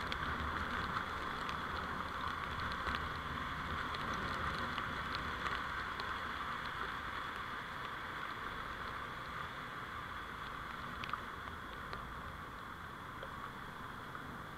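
Steady road and engine noise of a moving vehicle picked up by a dash camera, with scattered faint ticks, easing off slightly in the second half.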